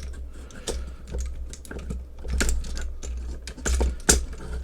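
Plastic toy robot parts being handled and clicked into position: irregular small clicks and snaps, over a steady low hum.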